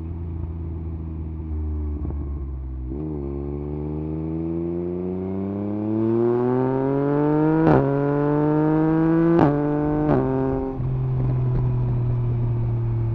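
Yamaha MT-09 SP's three-cylinder engine through an Akrapovič exhaust with the dB killer removed, pulling up through the revs a few seconds in. Three sharp cracks with short dips in pitch come at the gear changes. It then settles to a steady cruising note near the end.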